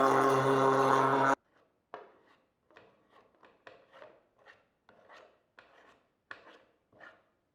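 Background music that cuts off abruptly about a second in, followed by quiet repeated rubbing strokes, roughly two a second.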